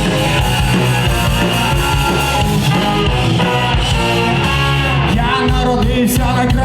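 Rock band playing live, electric guitars to the fore over bass and drums, in a passage without words.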